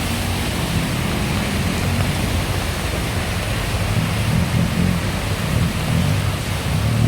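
Steady heavy rain and running floodwater, with a low rumble underneath.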